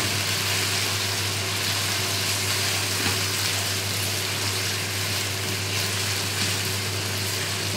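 Diced chicken and garlic sizzling steadily in hot oil in a wok while being stirred with a wooden spatula, the chicken cooking off the water it releases. A steady low hum runs underneath.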